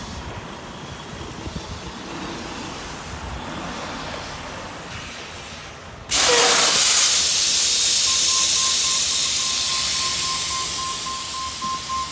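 Truck's air brake system releasing compressed air with a loud hiss that starts suddenly about six seconds in and slowly eases off. From about two seconds later, a rapid beeping tone sounds over it.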